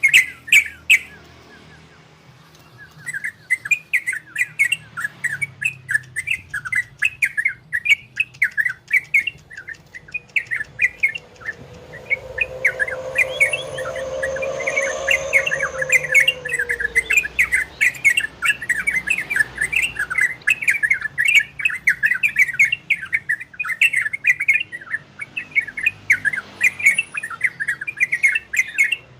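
Trucukan (yellow-vented bulbul) singing a fast, unbroken run of chirping notes in the 'ropel' style, pausing briefly near the start. Around the middle a lower drawn-out sound swells and then falls away beneath the song.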